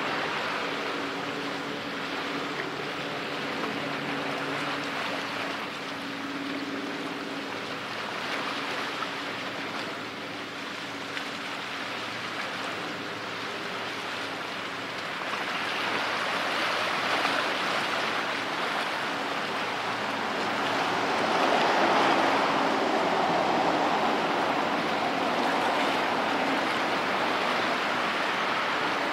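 Police patrol boat under way: a steady low engine drone under the rush of water from its hull and wake. The engine tones fade in the first half, while the water rush grows louder from about halfway through.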